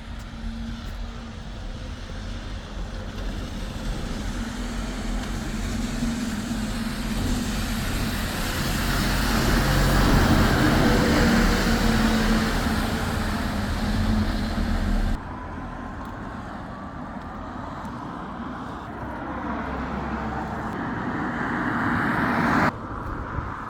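Road vehicles passing on a wet road: a heavy vehicle's engine rumble with tyre spray hiss builds to a peak about ten seconds in and stops abruptly, then a second vehicle's wet tyre hiss rises and cuts off suddenly near the end.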